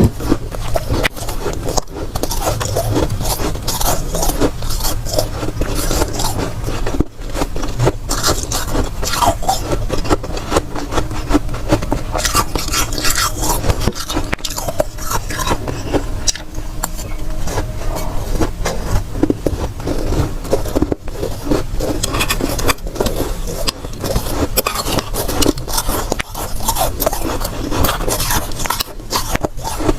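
Dry, soft freezer frost crunching as it is bitten and chewed close to the microphone: a dense, continuous run of crisp crackling crunches.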